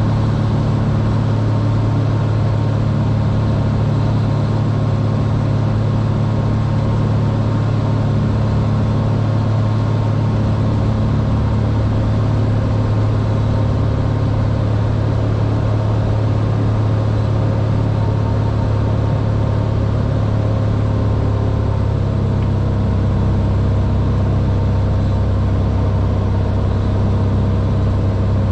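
Cessna 182R's six-cylinder piston engine and propeller running steadily, heard as a loud, even drone from inside the cabin, its low hum shifting slightly after about twenty seconds.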